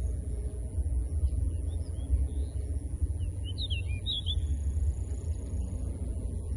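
A small bird gives a quick burst of high chirps about halfway through, over a steady low rumble and a constant high-pitched hiss.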